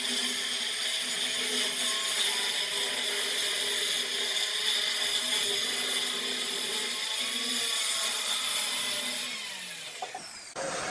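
An electric woodworking power tool running at a steady speed on wood, then winding down in pitch near the end.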